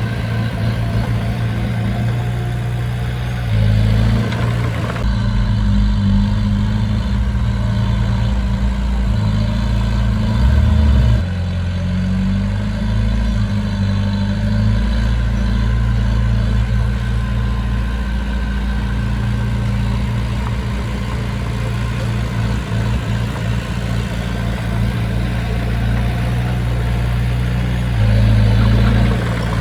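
Diesel engine of heavy earthmoving machinery running steadily, louder for a few seconds at a time several times.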